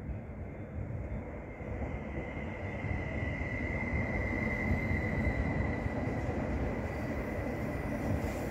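An electric commuter train (multiple unit) pulling in along the platform and slowing to a stop: a rumble of wheels on rails with a steady high squeal that builds about two seconds in, is loudest mid-way and fades near the end.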